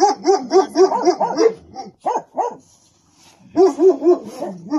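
Small dog barking in quick runs of short, high yaps, about five a second, with a brief pause and a fresh run of barks near the end.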